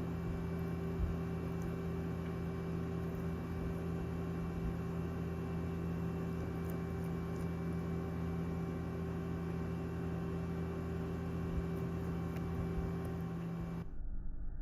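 Steady electrical hum made of several constant tones over low room noise. Near the end it cuts off abruptly and a duller, muffled noise takes its place.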